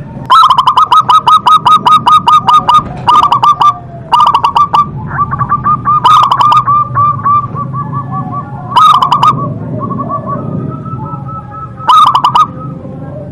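A zebra dove (perkutut) cooing loudly in quick runs of short repeated notes. The runs come in several bursts with short pauses between them.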